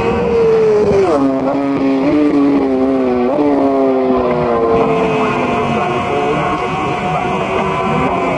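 Superbike racing engine at high revs. Its pitch drops sharply about a second in, jumps up again a little after three seconds, then slides steadily down.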